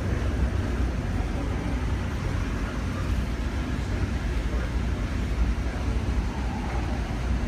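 Steady low rumble of a moving Amtrak passenger train, heard from inside the car.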